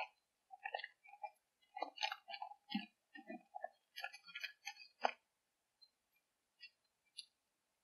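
Irregular short crunches and clicks, like munching on food, dense for about five seconds and then thinning to a few scattered clicks. The recording is heavily noise-reduced, so the background drops out to silence between sounds.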